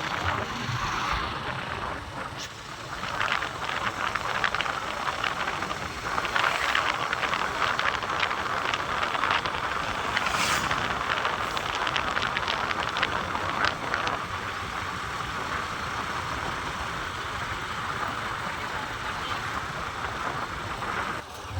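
Road traffic noise: a steady din of passing vehicles, a little louder for the first half.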